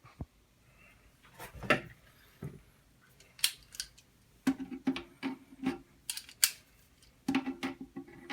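Irregular sharp clicks and clattering knocks of plastic toilet-flush parts being handled, with a quick cluster of rattles about halfway through and another near the end.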